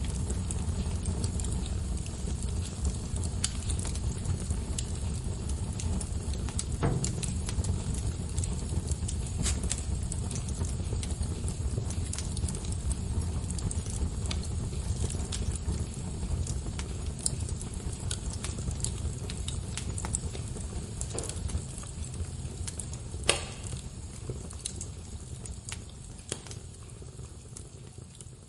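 Wood fire burning, with a steady low rumble of flames and scattered sharp crackles and pops of burning wood, one pop louder than the rest near the end. The sound fades down in the last few seconds.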